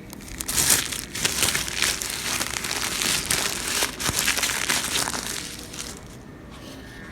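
Packaging being handled and crumpled, a dense crinkling that runs for about six seconds and dies away near the end.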